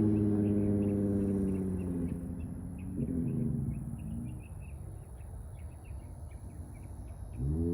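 Straight-piped 3.6-litre V6 of a 2019 Dodge Charger GT, its exhaust note falling in pitch and fading as the car slows after a pull, with a short blip about three seconds in. Near the end it revs up again with a rising pitch. Faint high chirping is heard in the background while the engine is quiet.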